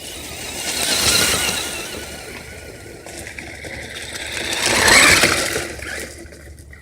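Radio-controlled car driving past twice, its motor whine and tyre noise swelling and fading each time, the second pass louder.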